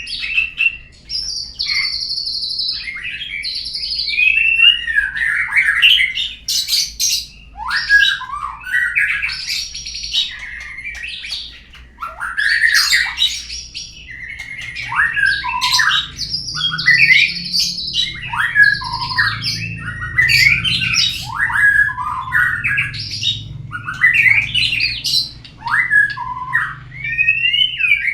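Murai song used as a "pancingan" lure to prompt a caged murai to sing: a continuous, loud run of varied whistled phrases, rising and falling sweeps and harsher chattering notes.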